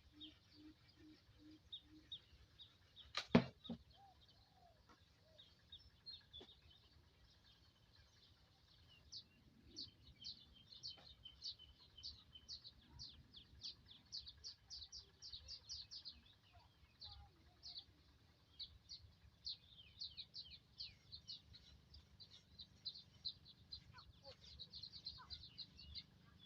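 Birds chirping in quick runs of short, high notes, with one sharp knock about three seconds in.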